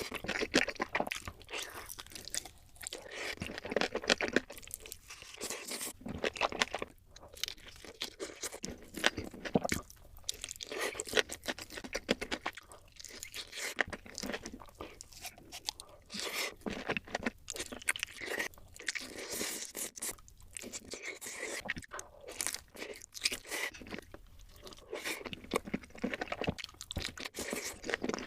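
Close-up crunchy eating: someone biting and chewing crisp food, with dense, irregular crackling crunches and short pauses between mouthfuls.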